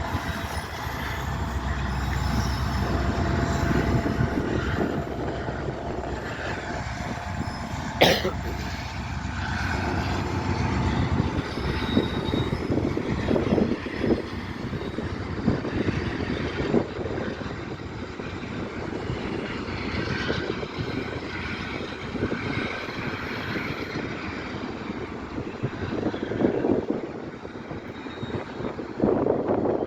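Freight train rolling past on a railway bridge: a steady rumble of wheels with scattered clanks and faint squeals, and one sharp clack about eight seconds in. The deep rumble eases after about twelve seconds.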